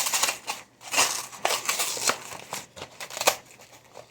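Packaging being handled: a run of irregular crinkling and rustling bursts as the wrapping is pulled and shifted.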